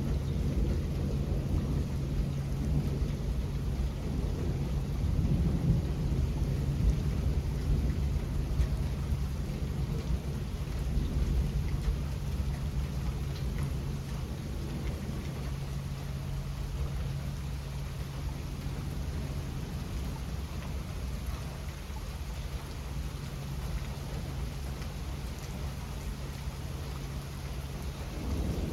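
Steady rain with low rumbling thunder, the rumble somewhat heavier in the first third and easing after.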